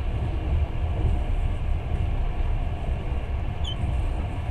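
Passenger train running at speed, heard from on board: a steady rumble of wheels on rails.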